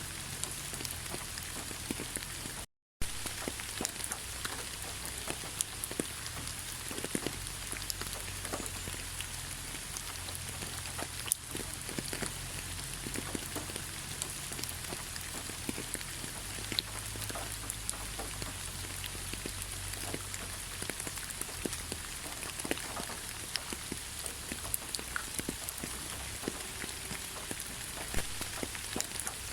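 Steady rain falling, with many separate drops ticking on a surface over an even hiss. The sound cuts out completely for a moment about three seconds in.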